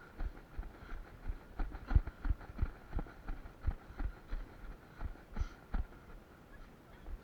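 Running footsteps thudding through a body-worn camera, about three strides a second, fading out near the end as the pace drops.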